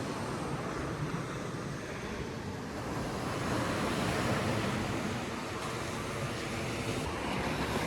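Ocean surf washing up on a sandy beach, a steady rush of breaking waves that swells a little midway.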